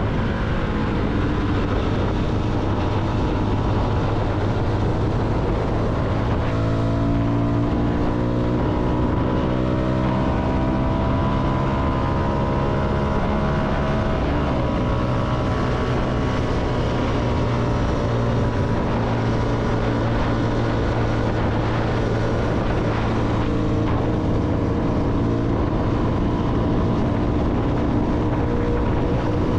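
CFMoto motorcycle engine running while riding, with wind rush. Its note rises slowly for several seconds from about a fifth of the way in, then holds steady.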